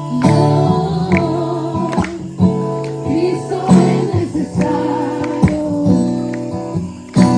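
Worship song: an acoustic guitar strumming chords while voices sing a wavering melody line over it.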